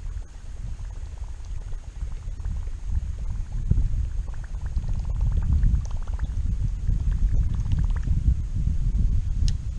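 Water gurgling and sloshing close to the microphone as a low, uneven rumble, with bursts of fine rapid ticking in the middle, likely from a spinning reel being cranked during the retrieve, and a couple of sharp clicks near the end.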